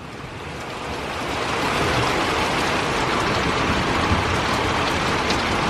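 Heavy thunderstorm rain pouring down, a dense steady hiss that swells over the first couple of seconds and then holds.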